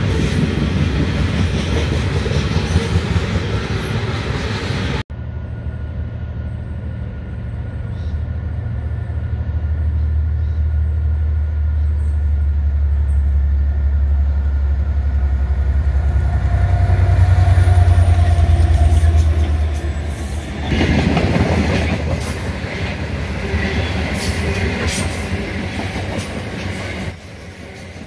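Loaded coal hopper wagons rolling past on the track. After a cut about five seconds in, diesel freight locomotives approach with a deep engine drone that grows louder. From about twenty seconds in, grain hopper wagons roll past with a high wheel squeal near the end.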